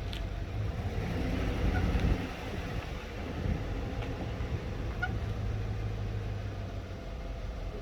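A vehicle engine running at low speed, a steady low rumble with a brief louder swell about two seconds in.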